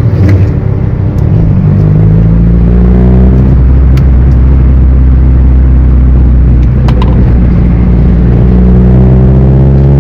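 Car engine running loud under way, a steady low drone that climbs in pitch a couple of seconds in and again near the end as the car accelerates.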